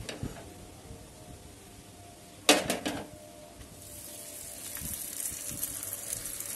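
Methi paratha frying in a little oil on a hot non-stick pan: a sudden loud crackle about two and a half seconds in as the dough meets the oil, then a steady sizzle that builds through the rest.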